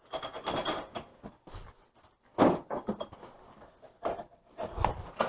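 Scattered knocks, clunks and scuffing from parts or tools being handled, the sharpest knock about two and a half seconds in and a couple of low thuds near the end.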